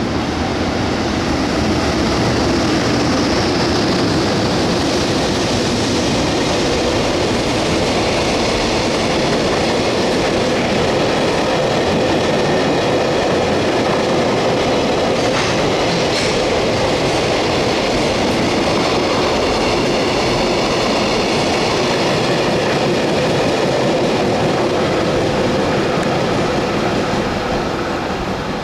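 Freight train rolling past, the steady rumble and rattle of its wagons' wheels on the rails, dying away near the end.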